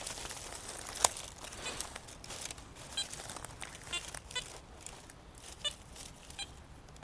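Footsteps crunching and rustling through dry forest leaf litter, with a sharp click about a second in and several short chirps over the second half.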